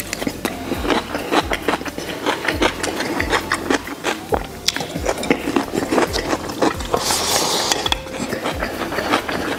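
Close-miked eating: a mouthful of crunchy smashed cucumber and rice chewed with many quick wet smacks and crunches, with a brief hiss about seven seconds in.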